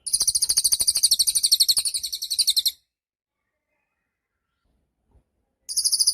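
Cililin bird singing a rapid, high-pitched trill of quickly repeated notes for about two and a half seconds, then a second short trill near the end.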